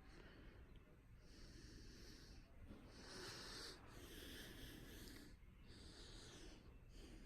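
Near silence, with faint hissing that comes and goes every second or so.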